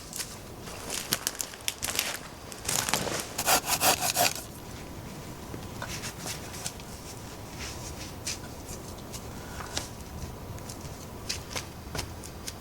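Wood being worked by hand: a run of rasping strokes, loudest about three to four seconds in, followed by scattered light clicks and snaps.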